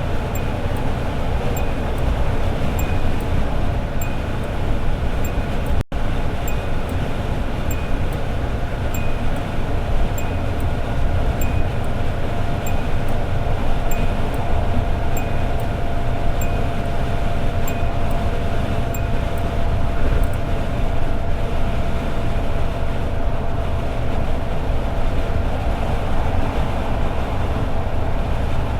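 Toyota AE86 Sprinter Trueno with its 4A-G engine cruising at highway speed: a steady drone of engine, road and wind noise. A faint steady whine joins partway through, with light regular ticking throughout and a momentary cut in the sound about six seconds in.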